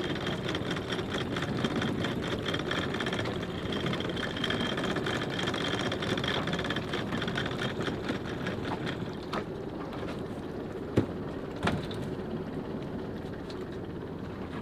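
Sailboat's inboard engine running steadily at low revs with a fast, even clatter, the boat holding station, with water and wind noise around it. Two sharp knocks about eleven and twelve seconds in.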